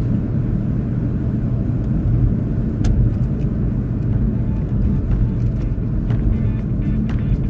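Steady low rumble of a car driving along the road, with a single sharp click about three seconds in.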